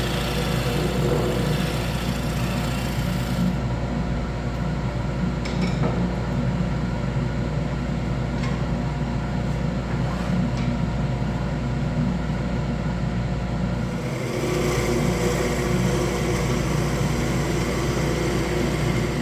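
Wood lathe running steadily with a constant motor hum. A hissing noise lies over it for the first few seconds, drops away, and comes back about fourteen seconds in.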